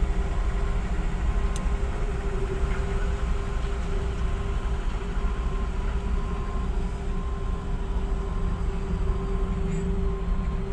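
An engine running steadily: a constant low rumble with a steady hum over it, and a faint higher tone that comes and goes in short pulses.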